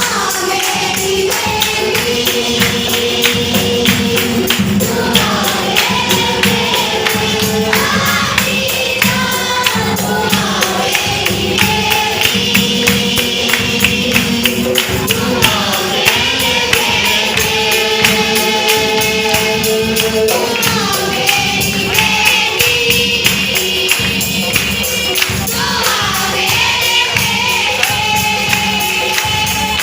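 Gospel worship song sung by a group of voices, with a tambourine shaken and struck to a steady, fast beat.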